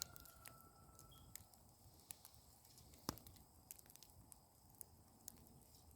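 Faint crackling of a wood bonfire burning down: scattered small pops, with one sharper pop about three seconds in.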